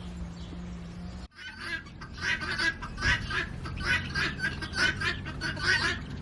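A steady low hum, then after a sudden cut, farmyard poultry calling in a rapid string of short calls, about three a second.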